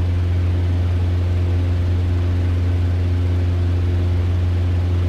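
Cessna 150's four-cylinder Continental O-200 engine and propeller droning steadily in flight, a low even hum that holds the same pitch throughout.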